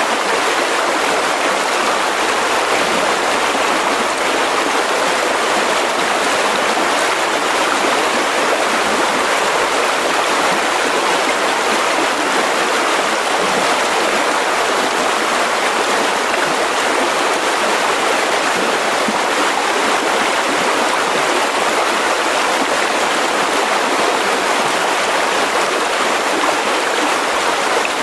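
Mountain river rushing over rocks: a steady, even rush of flowing water with no breaks.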